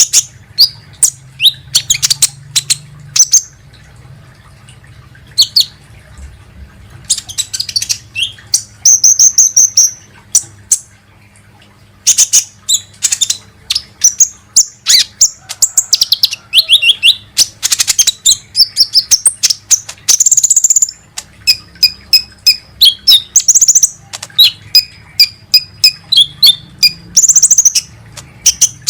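Sunbird of the kind called 'kolibri ninja' in Indonesia, calling: rapid, sharp, high-pitched chirps and short trills in quick bursts separated by brief pauses.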